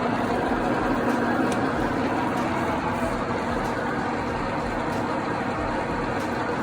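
Elliott U2 universal milling machine running steadily, with a constant mechanical hum and whir from its motor and gearing.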